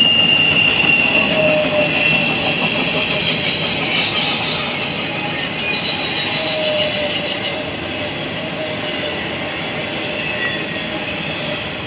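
Norfolk Southern double-stack intermodal freight cars rolling past at speed, a steady rumble and rattle of steel wheels on rail. A high wheel squeal fades out in the first couple of seconds, and the whole sound slowly gets quieter as the train moves away.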